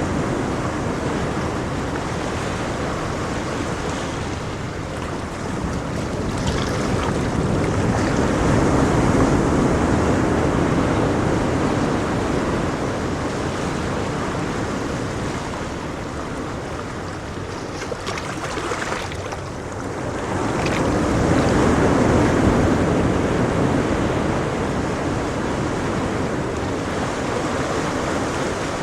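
Ocean waves breaking and washing on a shore in a continuous roar, swelling louder twice, about a third of the way in and again past two thirds.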